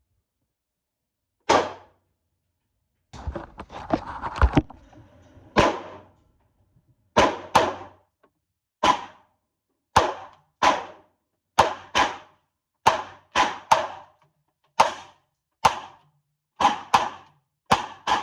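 Taurus G3 9mm pistol being fired, a string of about a dozen and a half sharp shots, mostly a second or less apart. There is a denser, messier run of bangs about three to four seconds in.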